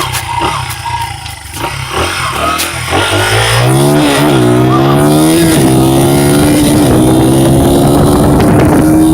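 Dirt bike engine running low and uneven, then accelerating about three seconds in: its pitch rises, dips briefly at a gear change and climbs again, then holds steady and loud at speed.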